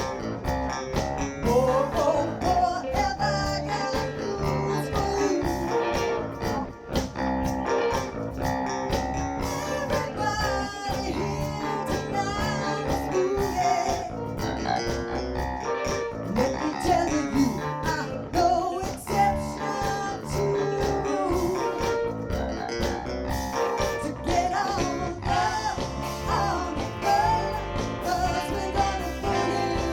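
Live band playing a bluesy passage with a guitar lead over steady bass and drums.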